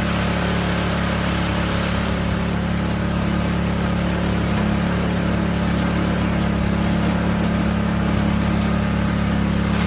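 Small gas engine of a walk-behind power rake (dethatcher) running steadily and smoothly at a constant speed, just after a cold start.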